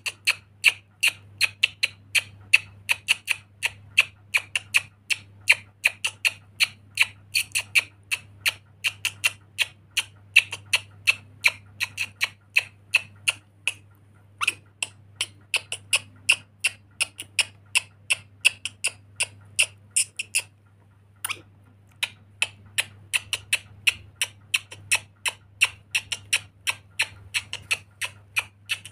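Lory parrot giving a rapid series of short, shrill squawks, about three or four a second, with two brief pauses.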